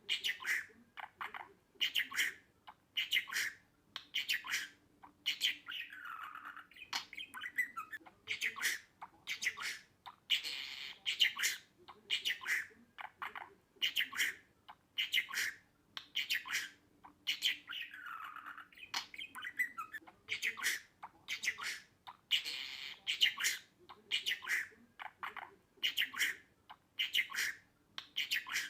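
Budgerigar chattering: a rapid string of short squawks and chirps, with a longer falling warble about every twelve seconds.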